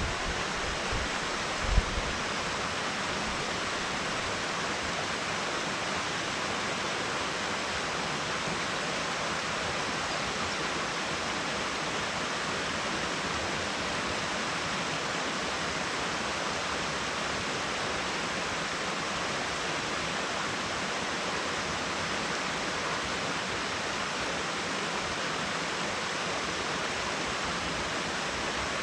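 Steady rush of falling water from a waterfall, unchanging throughout. A few low thumps come in the first two seconds.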